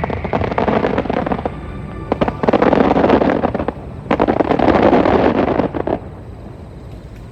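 Aerial fireworks bursting with sharp bangs and crackling, with two long spells of dense crackle about two and a half and four seconds in that die down near the end. Music plays underneath.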